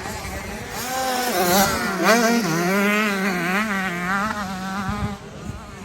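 Motocross bike engines running hard, the engine note rising and falling as the throttle is worked.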